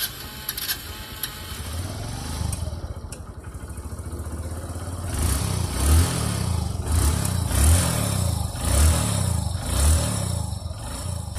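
Freshly rebuilt single-cylinder four-stroke engine of a Hero Passion Pro X motorcycle running on its test run, blipped on the throttle in short revs about once a second through the second half.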